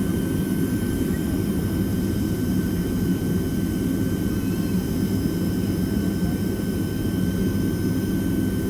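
Steady cabin noise inside a Boeing 767-300ER airliner: a low, even drone of the jet engines and airflow, with a faint steady whine above it.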